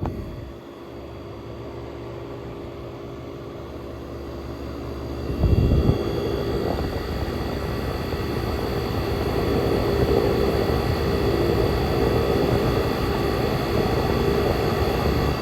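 1967 Chrysler Airtemp air conditioner running, a steady fan rush. About five and a half seconds in it gets suddenly louder with a thud, and a steadier hum carries on at the higher level.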